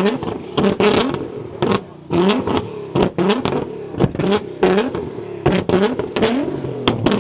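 A car engine revved over and over in short blips, each a quick rising sweep, with sharp cracks from the exhaust between them.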